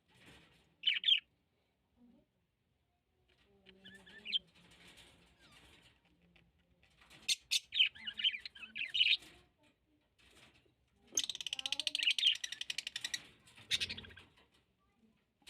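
Pet birds chirping in short high bursts, with a long, fast run of chattering notes about eleven seconds in.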